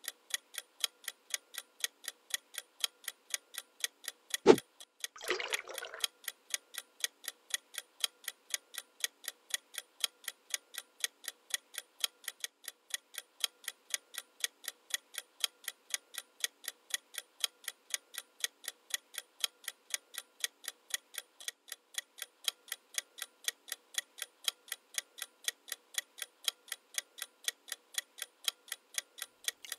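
Steady clock-like ticking, about three ticks a second. About four and a half seconds in there is a single sharp knock, and a short rush of noise follows it for about a second.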